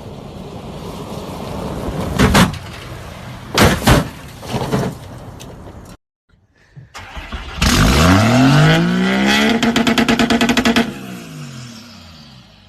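Two separate vehicle sounds. First, rising vehicle noise broken by several loud sharp knocks. Then, after a brief silence, a truck engine revs hard, its pitch climbing steeply, holds at the top with a rapid flutter, and then drops away.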